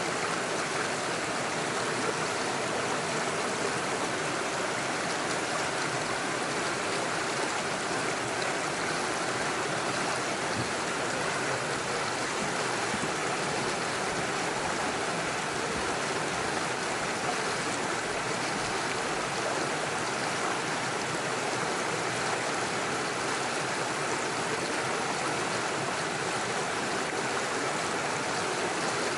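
Small forest stream rushing over rocks and little waterfalls: a steady, even splashing of running water that does not change.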